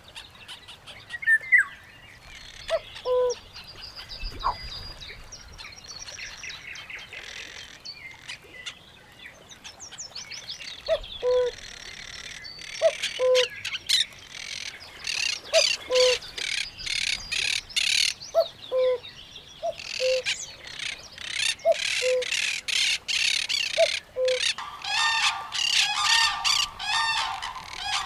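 A mixed chorus of birds chirping and calling, with a repeated two-note falling call about once a second. Near the end, harsher honking calls come in.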